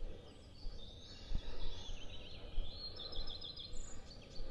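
Small songbirds singing, short chirps and a quick trill of repeated high notes, over intermittent low rumbles of wind on the microphone.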